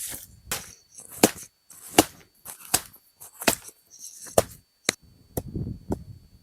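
Dry wood being chopped for firewood: about eight sharp strikes in a steady rhythm, roughly one every three-quarters of a second.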